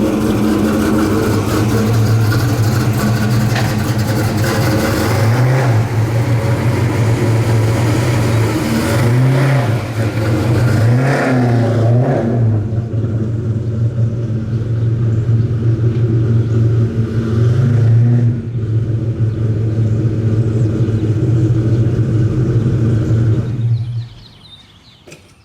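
1989 Mustang GT's 331-cubic-inch stroker V8 with a Holley carburettor idling as it warms up, blipped briefly several times, then switched off about a second before the end.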